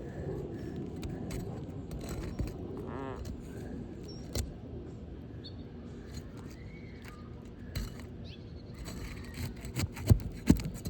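Scraping and clicking of a pry bar worked under asphalt roof shingles to break the seal and free a damaged shingle, with a few sharp knocks just after ten seconds in.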